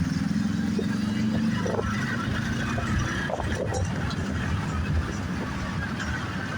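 Motorbike engine pulling away with a steady drone for the first three seconds or so, over a constant rush of wind and road noise.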